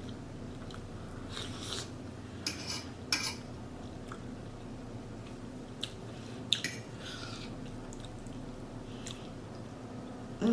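Close-miked chewing of pot roast, with scattered short clicks of a fork or spoon against a plate, over a faint steady hum.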